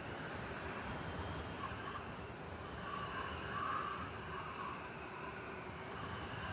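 Steady snowstorm wind over a low rumble of city traffic, swelling a little just past the middle.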